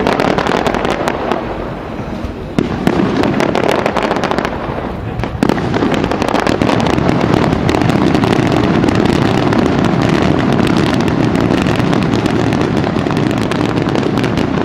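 Fireworks going off in a dense barrage of overlapping bangs and crackling. The bursts build up about five seconds in to a loud, nearly continuous salvo.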